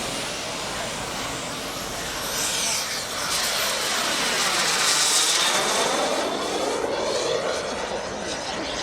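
Kingtech 26 kg-thrust turbine of a 1:5 scale RC F-16 jet model flying past: a steady jet whine and rush that swells to its loudest about five seconds in, then eases off.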